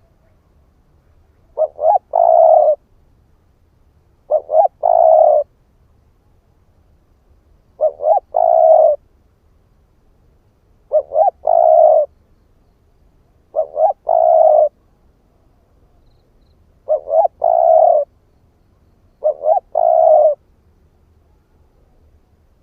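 Spotted dove cooing: seven phrases, each two short coos followed by a longer one, repeated about every three seconds. It is a song of the kind that rouses decoy doves.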